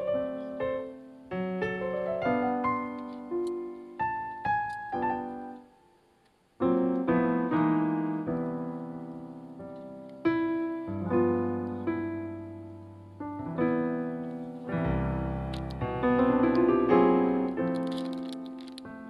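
Background piano music: a melody of struck notes, each fading after it is played, breaking off for a moment about six seconds in before going on.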